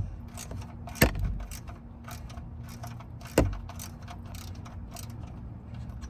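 Ratchet wrench clicking in short runs while the engine oil drain plug is backed out, with two sharp metallic knocks, about a second in and again near three and a half seconds.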